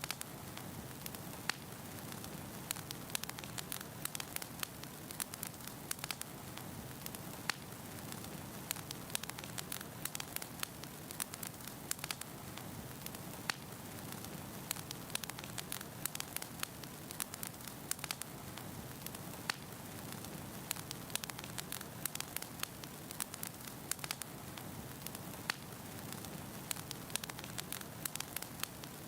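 Wood fire burning in a fireplace: a steady low rush of flame with frequent sharp, irregular crackles and pops from the burning logs.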